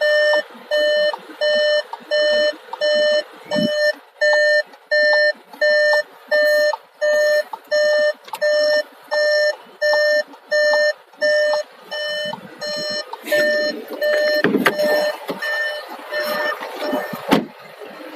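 Repeating electronic warning beep, about two beeps a second, each one short and evenly spaced; about twelve seconds in the beeps grow weaker. Near the end a couple of sharp knocks and some rustling handling noise.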